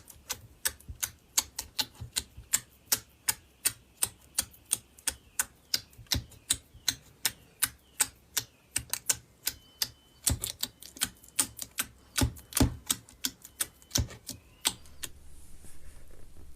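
Crunchy slime being poked and pressed: sharp crackling clicks at a steady pace of about three or four a second. About fifteen seconds in, the clicks stop and a soft, continuous crinkling rustle begins.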